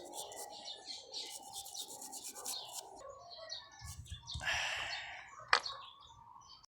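Quick runs of high chirping, like small birds, with a short scrape a little after four seconds and one sharp click about five and a half seconds in.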